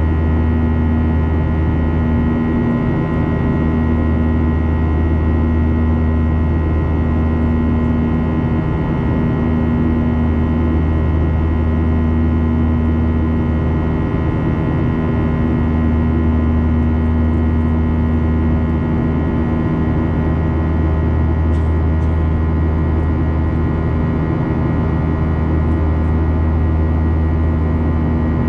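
Boeing 737-800 in flight: its CFM56-7B jet engines and the airflow make a steady drone. There is a strong deep hum and several steady tones, one of which swells and fades slowly.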